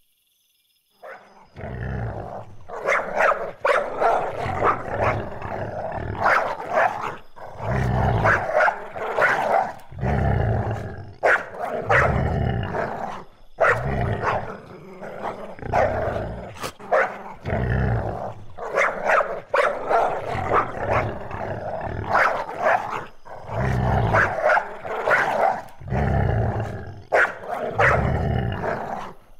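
Loud animal calls, starting suddenly about a second in and repeating roughly once a second, each with a deep rumbling undertone.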